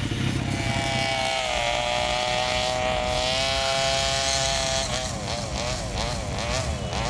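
An engine revving: held at steady high revs for a few seconds, then blipped up and down in quick repeated throttle stabs from about five seconds in.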